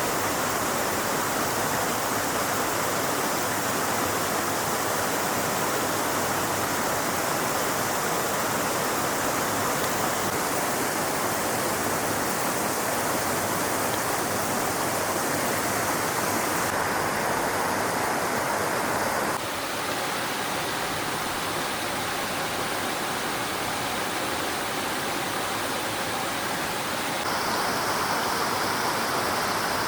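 Stream water rushing steadily. The sound shifts abruptly in tone and loudness a few times, dropping a little about two-thirds of the way through and rising again near the end.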